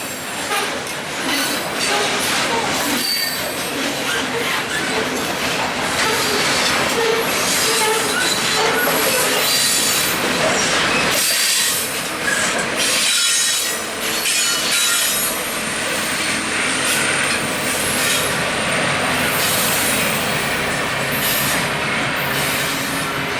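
Freight train cars rolling past, steel wheels squealing high-pitched on and off over steady rumbling and clattering on the rails.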